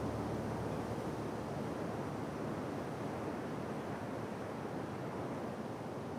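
Steady wash of sea water with wind noise, slowly easing off.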